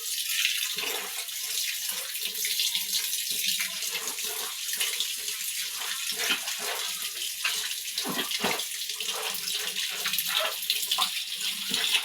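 Water running steadily from a tap into a basin, with irregular splashing as it fills and wets the clothes.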